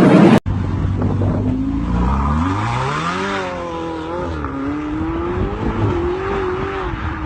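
A car engine accelerating: its pitch climbs for about a second and a half, wavers up and down, then holds steady. A loud noisy sound cuts off abruptly about half a second in.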